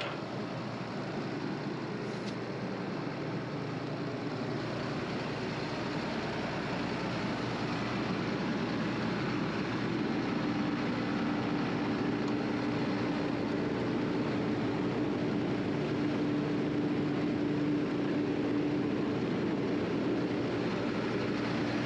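John Deere 9500 combine running steadily, a continuous machine drone that grows slightly louder, with a steady tone coming in about halfway through.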